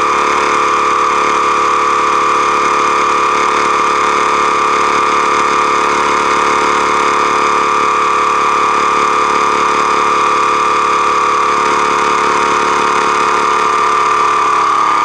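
Profi Cook vacuum sealer's pump motor running steadily while it draws the air out of the bag, a loud, even, high-pitched hum.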